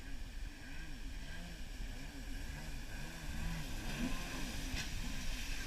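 Jet ski engine heard from a distance, its pitch rising and falling quickly and repeatedly as the throttle and load change, with a faint click near the end.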